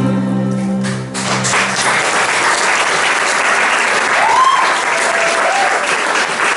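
The last held chord of the live music dies away in the first second or two and the audience breaks into applause, with a couple of short whoops about four and five seconds in.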